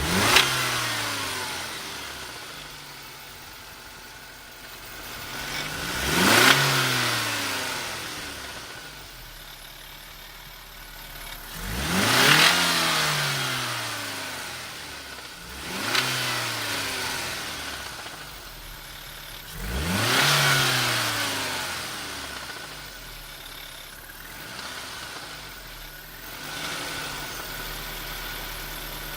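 BMW E46 318i's M43B19TU four-cylinder engine blipped up from idle five times, a few seconds apart, each rev rising quickly and sinking back to idle, with a smaller blip near the end. The owner puts the noise in this early part down to the DISA intake-manifold flap, which is loose and rattling.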